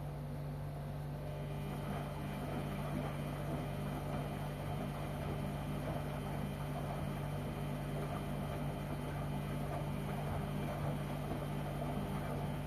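LG washing machine running a wash cycle: a steady low motor hum with an uneven churning noise over it that grows stronger about a second and a half in.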